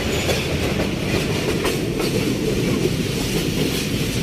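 Passenger train coach running on the track, heard from inside: a steady rumble with the clatter of wheels over the rails.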